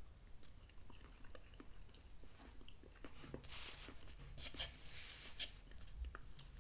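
Faint close-up chewing of a mouthful of beef meatball, with small scattered clicks. About halfway through there is a soft scraping patch as a fork cuts into the meatball on a paper plate.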